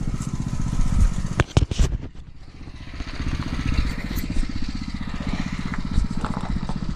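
Small gas engine of a pressure washer running steadily with an even pulse. A few sharp knocks come about a second and a half in, and the level dips briefly just after.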